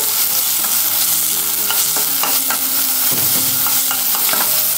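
Chopped onions, garlic and curry leaves sizzling in hot oil in a stainless steel kadai as they sauté, stirred with a spatula that scrapes and taps against the pan every so often.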